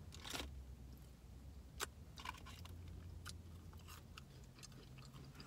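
A person chewing a mouthful of chicken sandwich close to the microphone: soft, wet mouth smacks and clicks about once a second, over a low steady hum.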